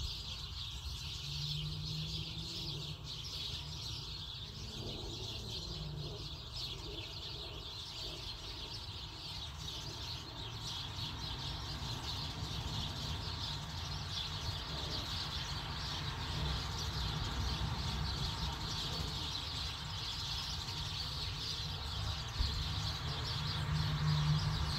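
Steady background of birds chirping, a dense high twittering over a low rumble.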